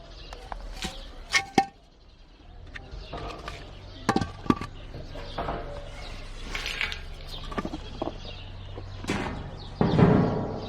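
Chickens and chicks moving about in their pen: scattered clicks and knocks with a few brief calls, and one louder bump near the end.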